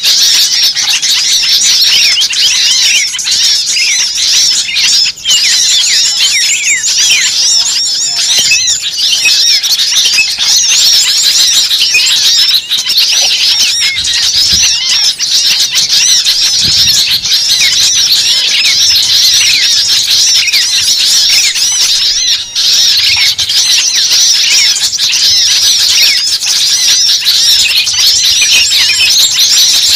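Dense, loud chorus of many small birds chattering, squeaking and twittering at once, a continuous mass of overlapping high chirps. It is a bird-lure recording of agitated small birds, played to draw other birds in.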